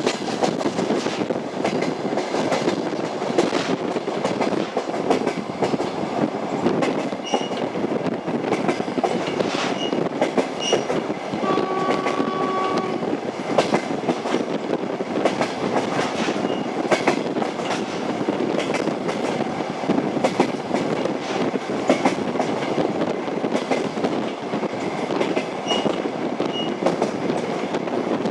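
Train running on rails, the wheels clattering over rail joints over a steady rumble. About twelve seconds in, a horn sounds one short tone.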